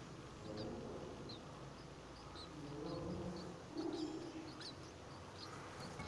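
Faint, short, high-pitched bird chirps scattered throughout, over a soft, low background murmur.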